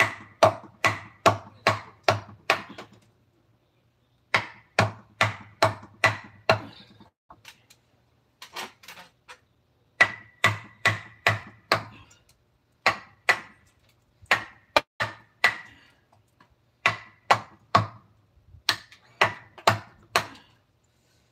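Wood-carving chisel driven into wood by a mallet: runs of six to eight quick blows, about three a second, with short pauses between runs. Each blow carries a brief metallic ring.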